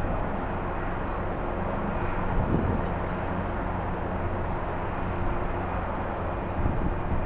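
Jet airliner engines running steadily, mixed with strong wind rumbling on the microphone.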